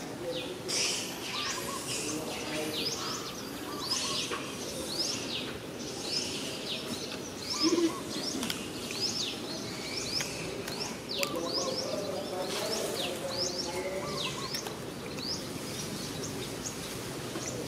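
Small birds chirping: quick, high sweeping notes repeated several times a second throughout, over a steady outdoor background noise. One brief, louder low sound comes about halfway through.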